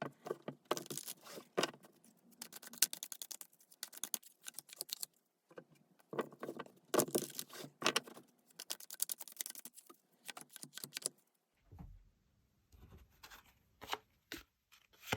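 Tarot cards being shuffled and handled: dense runs of quick papery clicks and riffles. The runs break briefly about five seconds in, then give way to a few scattered taps and a soft thud near the end.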